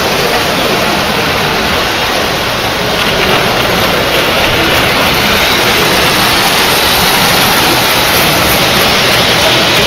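Steady, loud running noise of several O-scale model trains (Lionel/MTH type) rolling over metal three-rail track, with no distinct clicks or whistles; it grows a little louder about three seconds in.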